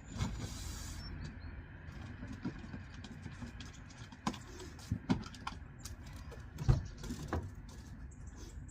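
Scattered knocks and clatter of items being handled and set down while loading, the loudest thump about two-thirds of the way in, over a low steady rumble.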